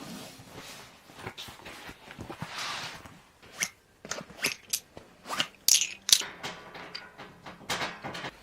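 Irregular rustling, crinkling and sharp clicks and knocks of camping gear being handled, with a longer swish about two and a half seconds in.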